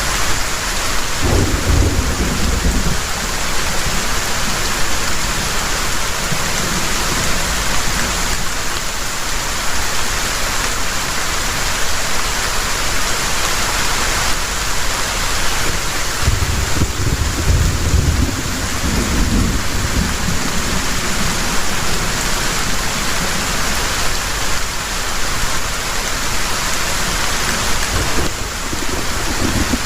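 Heavy rain falling steadily, with deep thunder rumbling about a second in, again a little past the middle, and briefly near the end.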